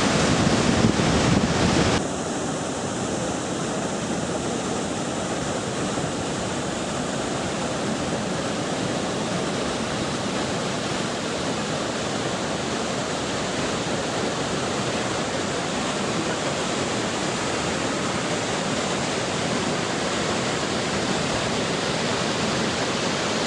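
Steady rushing of the Iguazu Falls' cascading water. Louder for about the first two seconds, then it drops abruptly to a slightly quieter, even rush.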